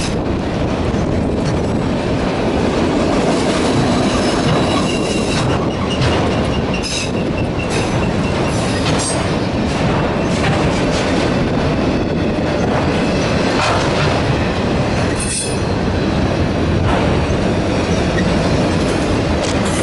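Freight train of autorack cars rolling past close by: a steady rumble of steel wheels on rail with occasional clanks, and a faint high wheel squeal now and then.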